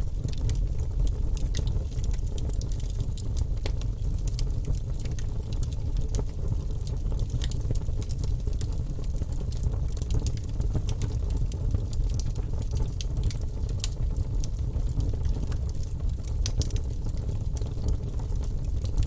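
Wood fire burning in a fireplace, with constant small crackles and pops over a steady low rumble.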